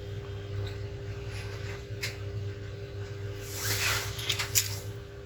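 Light handling noises on a workbench: a faint click about two seconds in, then a short scrape with a few clicks shortly after the middle, over a steady low electrical hum.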